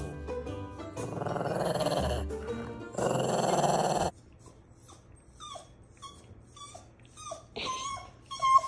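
A dog growling, with background music. The louder sound cuts off about four seconds in, leaving quieter short notes repeating about twice a second.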